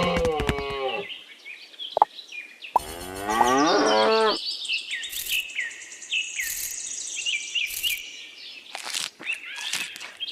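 A cow mooing twice: one long moo fading out about a second in, and another from about three to four seconds in. Birds chirp in short, falling notes throughout.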